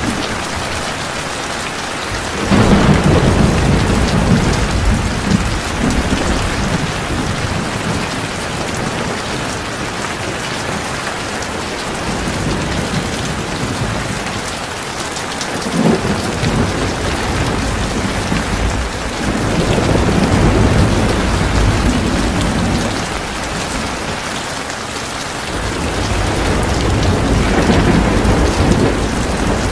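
Heavy rain pouring steadily, with thunder rumbling over it several times: a sudden rumble about two and a half seconds in, a brief one in the middle, and longer rolls just after the middle and near the end.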